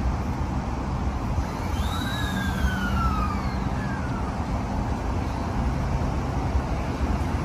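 An electric commuter train pulling out of the platform: a steady low rumble with a faint motor hum. About a second and a half in, a high whine rises briefly and then glides down in pitch over about two seconds.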